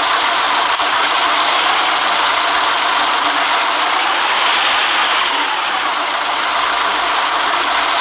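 City bus running on a rain-wet road: a steady hiss of tyres and engine noise that swells and eases slowly.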